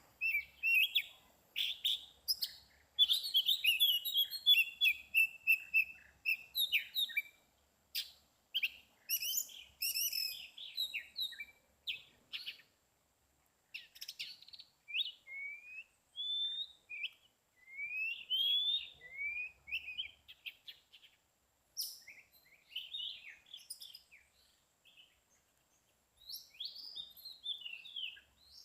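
Wild songbird singing a varied, rapid run of chirps and whistled slurs, many of them rising in pitch, broken by short pauses.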